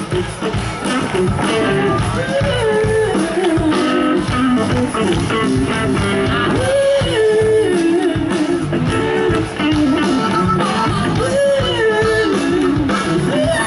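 Live band playing an instrumental passage with guitar prominent: a wavering lead melody over a steady drum and bass groove.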